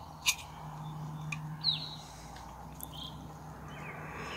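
A small bird repeating a short, high chirp that slides downward, about every two to three seconds, over a low steady hum. A sharp click comes just after the start, with a few fainter clicks, as a digital thermometer is handled.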